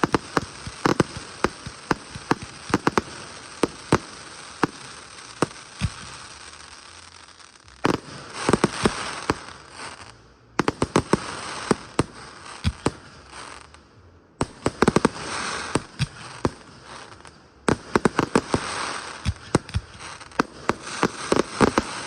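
Fireworks display: a rapid series of sharp booms from aerial shells. From about a third of the way in there are several dense rounds of crackling, each stopping abruptly.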